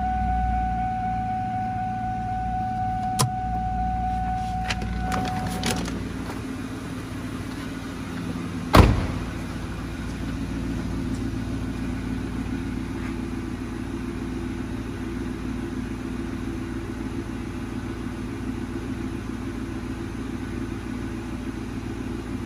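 2003 Ford Mustang GT's 4.6-litre V8 idling steadily soon after a cold start, at about 1,000 rpm. A steady high tone and a few clicks sound over it for the first several seconds, and a single loud thump comes about nine seconds in.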